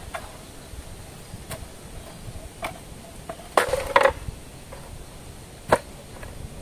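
Scattered light knocks and taps of wood being handled, with a louder clattering double knock about three and a half seconds in and another sharp knock near the end.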